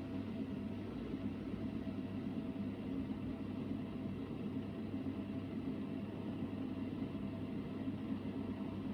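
Hoover VHD 9163 ZI washing machine in its final spin, its drum and motor running at a steady speed with an even hum.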